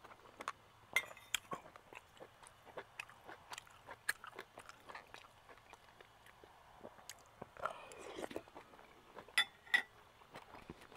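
Close-up eating sounds: chewing and mouth smacking in short irregular clicks, with a metal spoon now and then clicking against a glass bowl.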